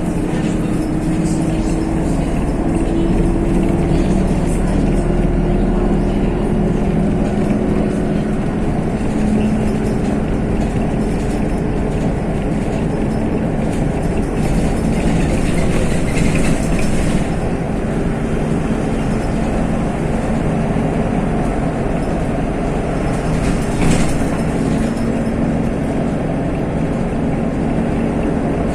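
MAZ-103 city bus heard from inside the cabin while under way: engine and drivetrain running with a steady hum whose pitch drifts slightly as speed changes, over road rumble. A brief sharp knock or rattle is heard about 24 seconds in.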